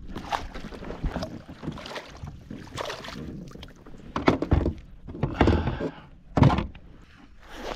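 Irregular knocks and thumps against a small boat's hull while a caught fish and gear are handled, with a few louder thumps in the second half.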